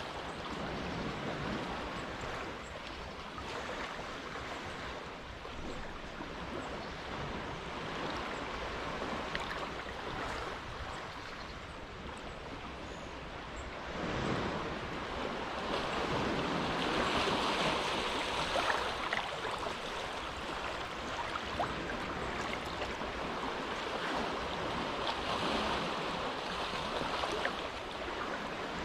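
Small, calm waves washing and lapping along a cove shore in a continuous hiss. They swell louder about halfway through, most strongly a few seconds later, and again near the end.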